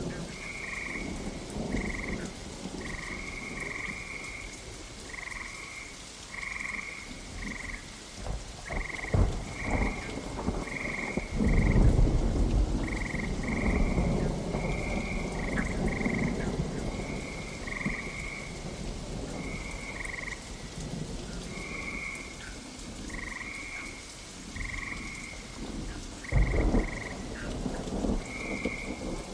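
Steady rain with thunder rolling about a third of the way in and a sharp crack near the end, while frogs croak in short calls over and over throughout.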